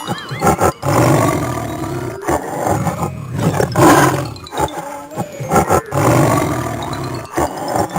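A big cat (lion or tiger) roaring several times in succession, each roar about a second long with short breaks between.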